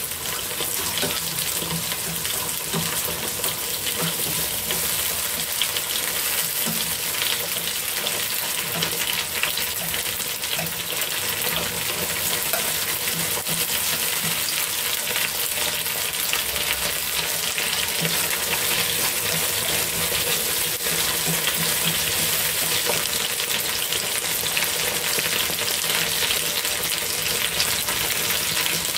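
Pieces of pig lung sizzling and crackling steadily as they fry in oil in a nonstick pan, turned now and then with wooden chopsticks.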